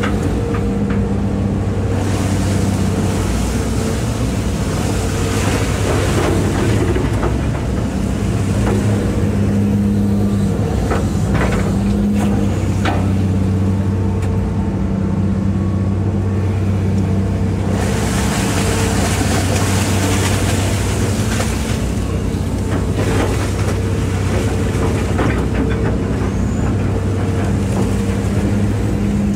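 Hitachi EX200-5 excavator's diesel engine running steadily as the machine works, with a brighter hiss that swells up twice and fades.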